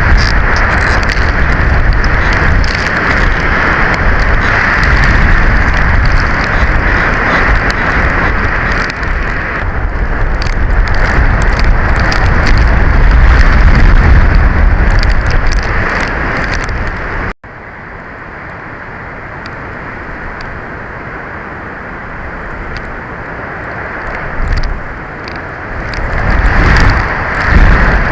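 Strong wind buffeting the nest cam's microphone: a loud rumbling rush. It drops off abruptly about two thirds of the way through to a quieter, steadier blow, then gusts build again near the end.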